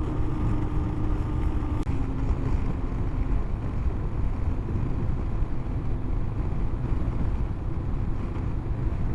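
Honda CB500X 471 cc parallel-twin engine running at road speed, with a steady rush of wind on the helmet-mounted microphone. A steady engine note breaks off with a click about two seconds in and settles at a new note.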